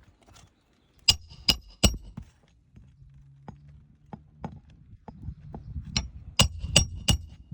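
Hammer strikes with a metallic ring during a roof-shingle repair, in two quick runs of three blows, with a few lighter taps between them.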